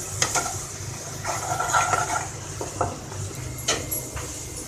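A spoon stirring onion puree in hot ghee in a metal pan: irregular scraping strokes and clinks against the pan over a steady frying hiss.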